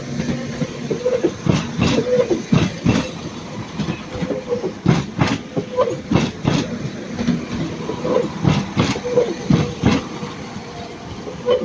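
Transport for Wales Class 197 diesel multiple unit rolling through the station, its wheelsets knocking over track joints in close pairs of clicks every second or two, over the steady hum of the train.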